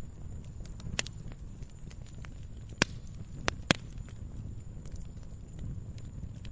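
Firewood burning: a steady low rumble with light crackling, and sharp pops from the wood about a second in and three more close together in the middle.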